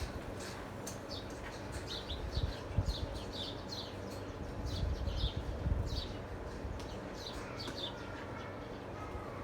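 Small birds chirping repeatedly: short, high, falling chirps, several a second, over a low rumble that swells twice.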